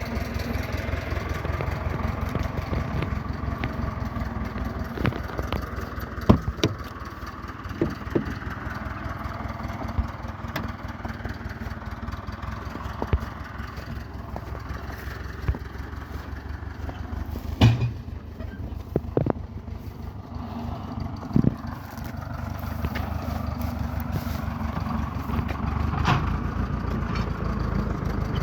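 BMW E34's engine being cranked over by the starter for a long stretch without catching: a rapid, even chugging with a few sharp clicks. It eases off somewhat in the middle and grows louder again near the end.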